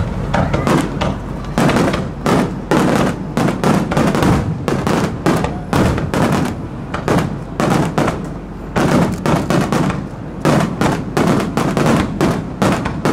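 Fireworks display: aerial shells bursting overhead in a rapid, irregular string of sharp bangs, several a second.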